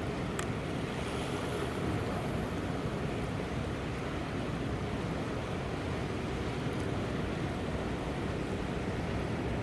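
Strong, near-typhoon wind and rough sea: a steady rushing noise.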